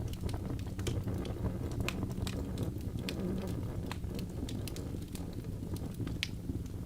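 Wood fire burning in a fireplace: a steady low rumble of flames with irregular sharp crackles and pops from the burning logs, one louder pop near the end.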